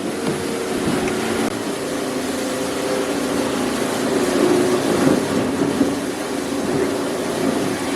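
A motor running steadily with a rough, grinding-like noise over a low hum, swelling slightly about halfway through.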